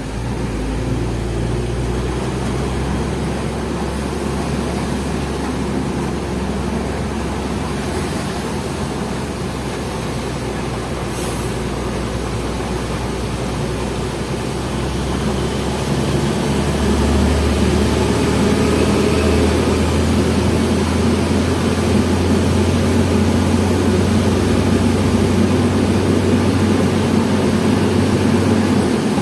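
Hino FL 260 JT truck's diesel engine running steadily with a low drone, laden with about 33 tonnes of coal; about halfway through the drone steps up and gets louder.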